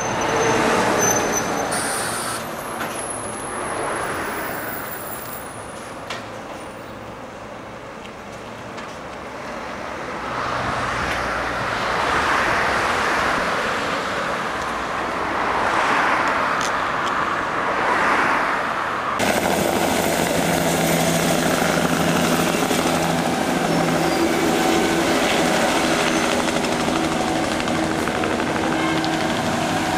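Train running past on the rails, its rolling noise swelling and fading several times. After an abrupt cut about two-thirds of the way in, a standing train runs steadily with a low, even hum.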